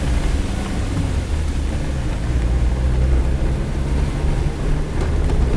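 Suzuki Jimny driving on a dirt road: a steady low engine drone with the rumble of tyres and road underneath.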